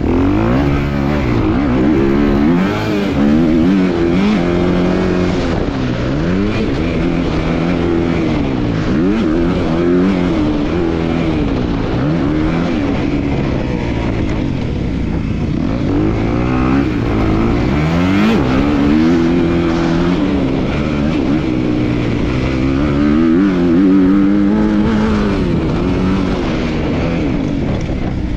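250 cc motocross bike engine ridden hard on a dirt track, its pitch climbing and dropping again and again as the throttle is opened and shut and the gears change, every couple of seconds.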